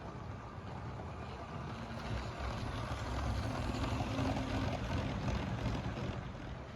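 LEGO train rolling along plastic track, a steady motor hum with rattling wheels, growing louder in the middle as it passes close and then easing off.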